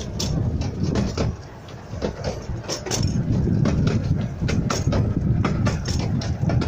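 Fairbourne Railway's 12¼-inch-gauge miniature steam train running along the line, heard from a carriage: a steady low rumble of wheels on the track with frequent irregular clicks and clatter from the rails and coaches.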